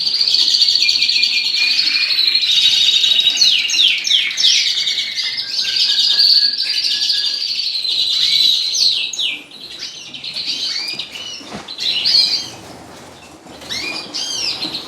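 Caged canaries and finches singing together in a dense, loud run of trills and twitters. About nine seconds in it thins to scattered chirps and calls.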